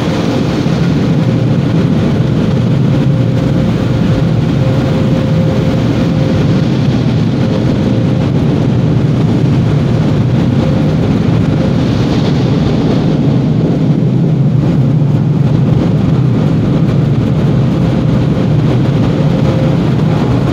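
Automatic car wash machinery running, heard from inside the car: a loud, steady low noise with a faint steady hum that comes and goes.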